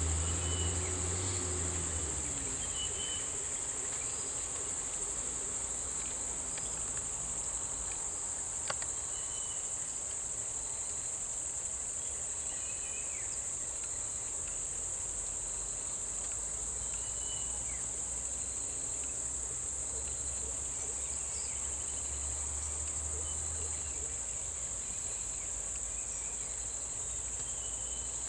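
Steady high-pitched drone of insects, with a few short faint chirps and a low hum that fades out about two seconds in and comes back for a while in the middle.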